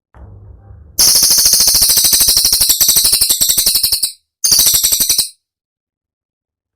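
Cililin bird song: a fast volley of sharp, high-pitched notes, about a dozen a second, lasting about three seconds, then a second shorter volley. This is the rapid 'tembakan' (shot) phrase.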